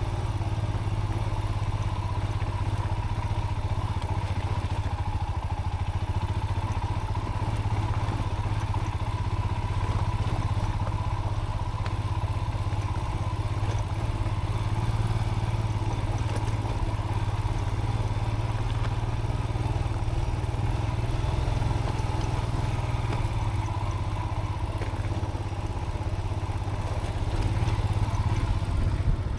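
Motorcycle engine running at a steady speed as the bike rides a rough off-road dirt track, heard through a chin-mounted helmet camera with wind and road noise over it.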